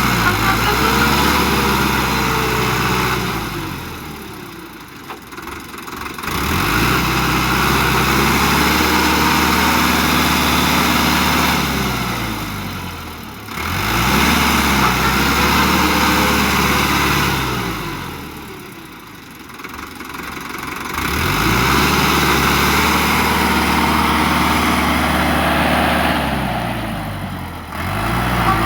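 Tractor engine revving up hard and easing off again several times, its pitch rising and falling with each push, typical of a tractor stuck in deep mud trying to drive out.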